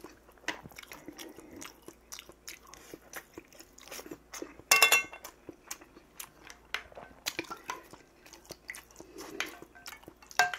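Close-up chewing and crunching of food, with many small mouth clicks. About five seconds in, a ringing clink of metal chopsticks against a stainless steel bowl, and another clink near the end.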